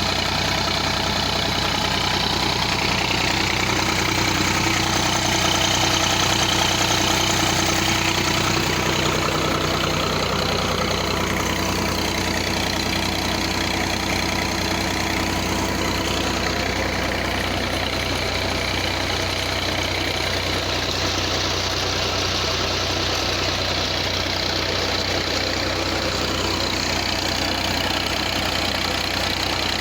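Millat MF240 tractor's three-cylinder diesel engine running at a steady speed while it drives a tubewell pump.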